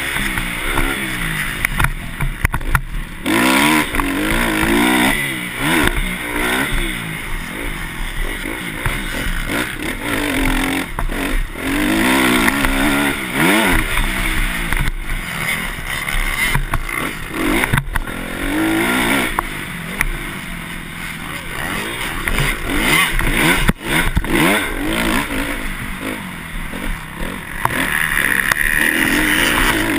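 Motocross dirt bike engines running hard, the pitch repeatedly climbing and dropping as the bikes rev up, shift and back off around the track.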